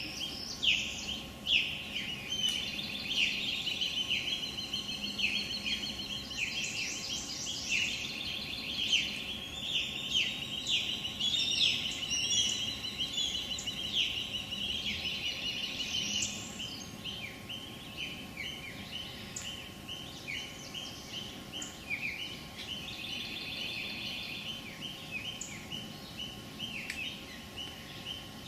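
Many small birds chirping and trilling at once in a dense, overlapping chorus, busiest in the first half and thinning somewhat later.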